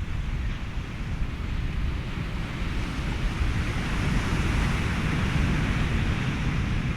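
Ocean surf with wind rushing over it, a steady rumbling wash of noise; a wave swells louder about halfway through and then eases.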